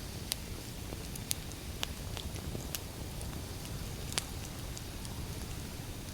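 Wood fire burning: a low steady rumble with scattered sharp crackles and pops, the loudest pop about four seconds in.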